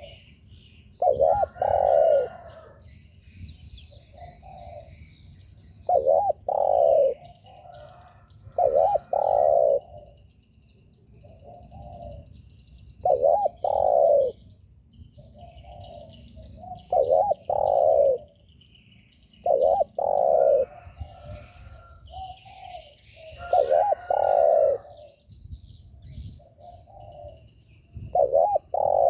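Spotted dove cooing: a phrase every three to four seconds, each a pair of loud coos with softer notes before and after, about eight phrases in all. Small birds chirp faintly behind it.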